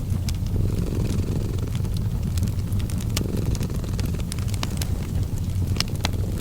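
Cat purring, a steady low rumble that swells in alternating stretches, mixed with a fireplace crackling in scattered sharp pops.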